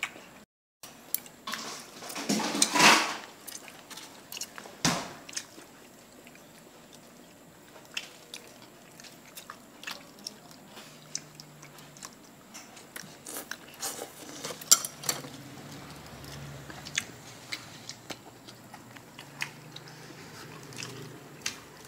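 Close-up eating sounds: a person chewing and biting food, with scattered light clicks of chopsticks against styrofoam food boxes and a brief louder rustle about three seconds in.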